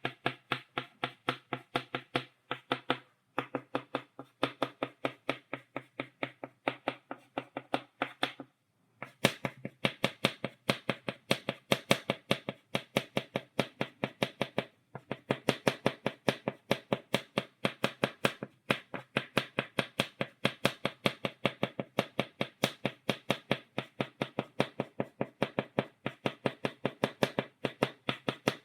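Chalk tapping dots onto a blackboard in a steady run of sharp taps, about four to five a second, with a few brief breaks, the longest about eight and a half seconds in.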